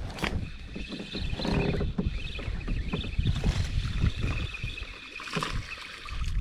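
Irregular knocks and bumps from handling on board a plastic fishing kayak, with water against the hull and a faint high steady tone through the middle.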